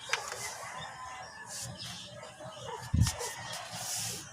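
Chickens clucking, with several short calls, and a dull thump about three seconds in.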